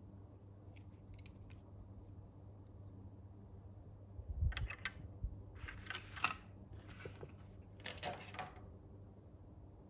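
Toy packaging being handled: a low thump about four and a half seconds in, then four short rustling bursts over the next few seconds.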